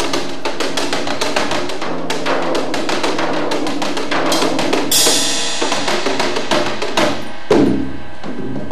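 Live improvised percussion on a drum kit: rapid, dense strokes on the drums, with a cymbal crash about five seconds in and a heavier low drum strike near the end.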